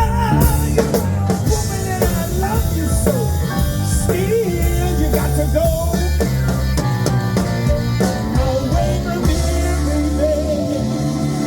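Live blues band playing: drum kit, bass and a wavering lead line over the groove.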